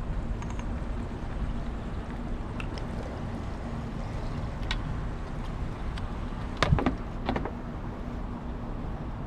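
Outdoor ambience on a fishing kayak: wind rumble on the microphone over a faint steady hum, with a few light knocks and a louder double knock about seven seconds in.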